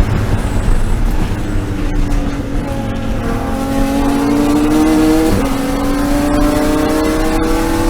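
BMW E36 M3 race car's inline-six accelerating hard, its pitch climbing steadily, with a quick upshift about five seconds in before it climbs again.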